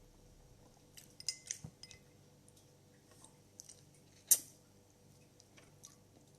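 Crab being eaten: a scattered handful of sharp clicks and small cracks as the shell is handled and broken. There is a quick cluster about a second in and the loudest single crack about four seconds in.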